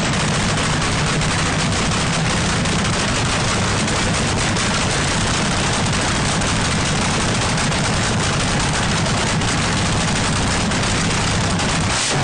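Turbocharged drag-car engine running loud at a steady speed, its exhaust crackling with rapid sharp pops.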